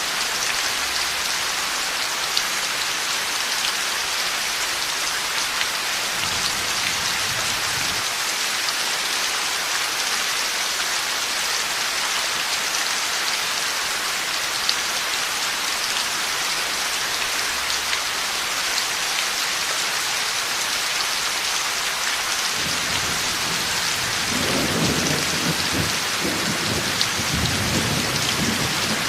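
Heavy rain falling steadily in a thunderstorm. A faint low roll of thunder comes about a quarter of the way in, and a stronger, longer rumble of thunder builds in the last quarter.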